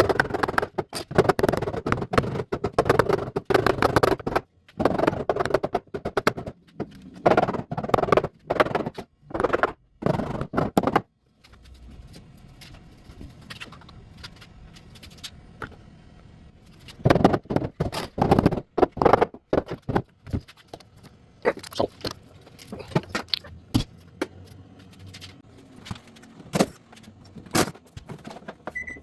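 Paintless dent repair hammer and knockdown tip tapping rapidly on the car's rear hatch sheet metal, knocking down the high crowns around the dent. There are dense runs of taps for about the first ten seconds, a pause of several seconds, then further shorter runs.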